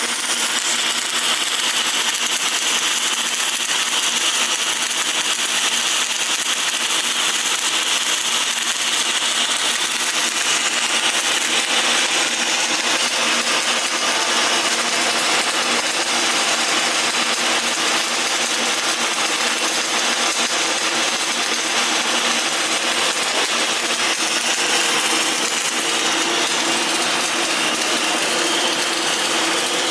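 Welding workshop equipment running: a continuous, even hiss with a steady machine hum underneath.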